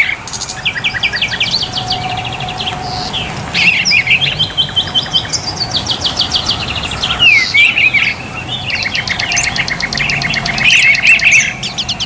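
Songbird singing a long, varied song: rapid runs of repeated chirps and trills with occasional slurred whistles.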